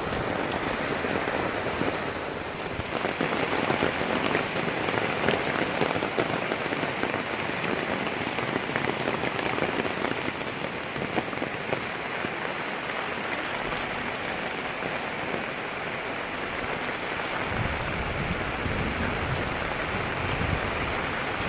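Heavy rain falling and pattering on surfaces, a dense steady hiss of many drops. A low rumble joins the rain for the last few seconds.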